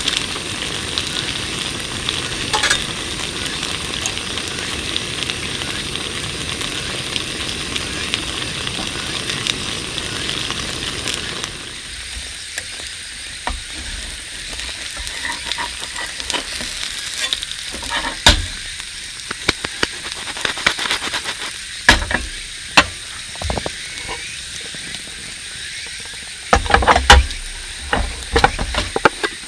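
Steady sizzling for about the first eleven seconds, then the sizzle drops away to scattered sharp crackles and pops, the loudest cluster coming near the end.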